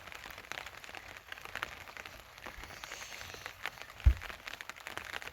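Heavy rain falling, many separate drops pattering on a surface, with one short, loud low thump about four seconds in.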